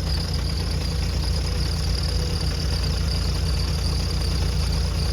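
A vehicle engine idling steadily, a low rumble, with a faint steady high-pitched whine above it.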